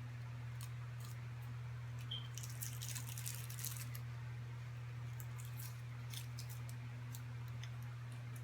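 A steady low hum with scattered small crackles and clicks, clustered about two and a half to four seconds in and again around six seconds: a snack being handled, opened and tasted by hand.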